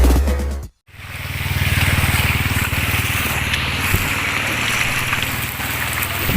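Electronic intro music cuts off, and after a short gap steady rain fades in, with a low steady rumble underneath.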